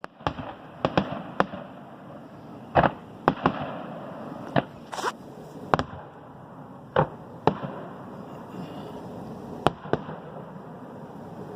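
Fireworks going off: about fifteen sharp bangs at irregular intervals, each with a short rumbling echo, ending about ten seconds in.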